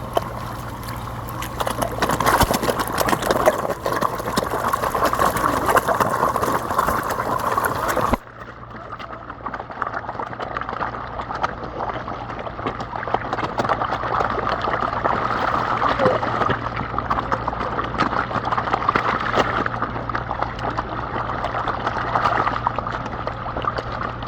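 Steady trickling, splashing noise like running water. About eight seconds in it turns abruptly duller and quieter, then builds back up.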